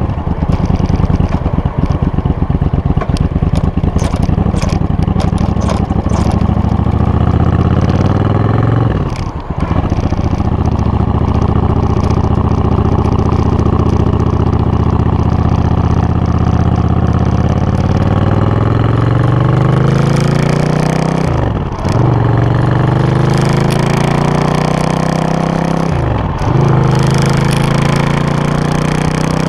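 Suzuki VS800 Intruder's V-twin engine and exhaust under way. It starts with a low, rapid pulsing at low revs, then the revs climb repeatedly, with short dips about a third of the way in and twice near the end, like gear changes while accelerating.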